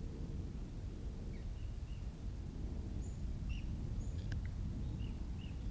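Small birds chirping in short, high calls, several scattered from about a second and a half in, over a steady low rumble.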